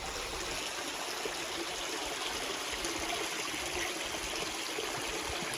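Running water of a karst-spring-fed waterfall stream, a steady even rush.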